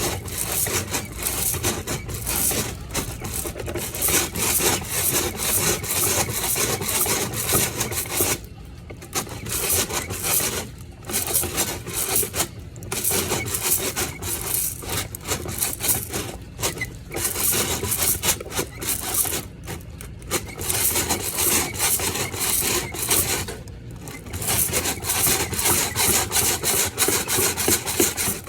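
Rough, rasping rubbing and scraping, made up of many quick strokes, nearly continuous with a few short pauses and stopping abruptly at the end.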